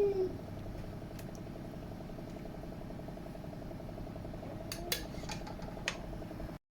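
A few light clicks of a utensil against a cooking pot, about a second in and again near the end, over a steady hum.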